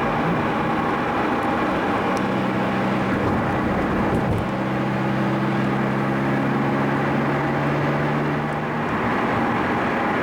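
Car engine and road noise heard from inside a moving car cruising at steady speed. The engine note changes briefly about four seconds in, then holds steady again.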